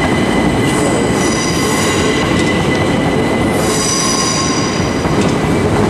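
Southern Class 377 Electrostar electric multiple unit pulling out along the platform, a steady rumble of wheels on rail with a high-pitched wheel squeal on the curved track coming in twice.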